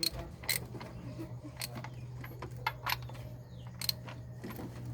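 Scattered sharp metallic clinks and clicks of hand tools and engine parts being handled during engine work, over a steady low hum.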